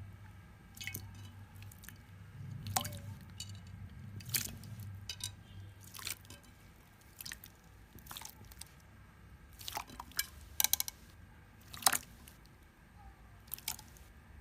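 Slime being squeezed and worked by hand, giving wet squishes and irregular sharp pops and crackles, the loudest pop near the end.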